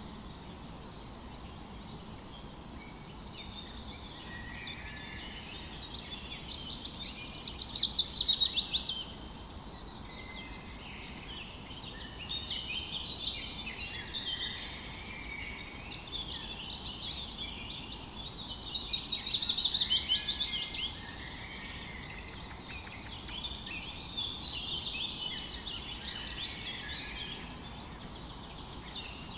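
A morning chorus of several songbirds chirping and warbling over a faint outdoor hiss, with a loud, fast trill of rapidly repeated notes standing out twice, about a quarter of the way in and again around two-thirds of the way through.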